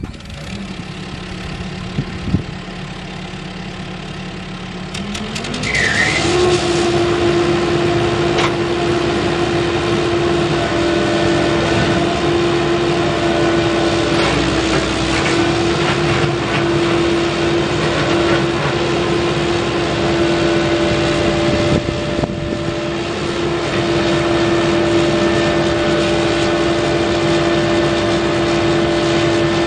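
CAT 308E excavator's diesel engine running at a low idle, then about five seconds in its speed rises, with a brief high chirp, and it settles into a steady, louder run at higher rpm.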